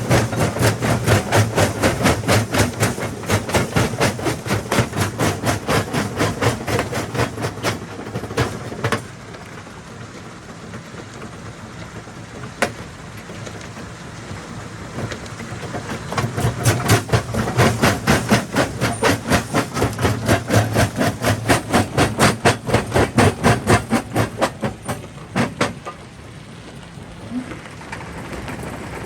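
Jaw crusher crushing rock: rapid, even knocking and cracking at about four strokes a second, in two long spells. Between them the running is quieter, with a single sharp crack about twelve seconds in.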